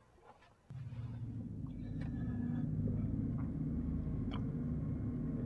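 Low, steady rumbling drone from a film soundtrack, cutting in abruptly less than a second in after a moment of silence, with a few faint clicks over it.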